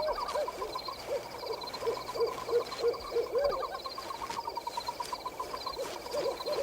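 Frogs croaking in a night-time pond chorus: short rising-and-falling calls about twice a second over a steady fast trill and thin high chirps.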